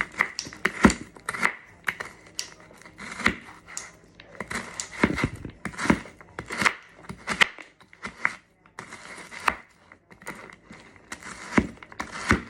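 Knife chopping frozen mixed vegetables on a board, a run of irregular sharp knocks and crunches.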